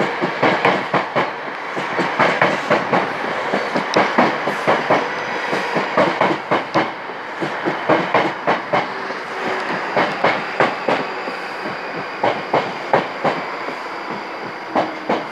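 Class 458 electric multiple unit rolling past close below, its wheels clicking over the rail joints, often in quick pairs, over a steady rumble. The clicks space out toward the end.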